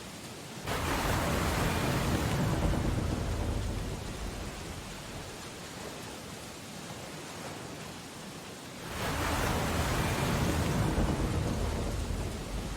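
Ocean storm ambience: steady rain hiss with two loud rushing surges, one breaking suddenly about a second in and fading over a few seconds, the other swelling near the end.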